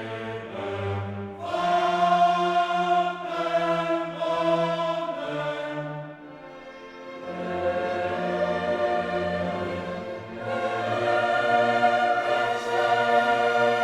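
Classical choral music: a choir singing held chords over an orchestra, briefly softer about halfway through.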